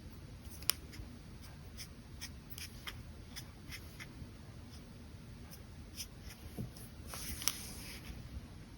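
Brush pen drawing on paper: light strokes and small ticks of the pen tip, with a sharper tap a little under a second in and a longer stroke near the end.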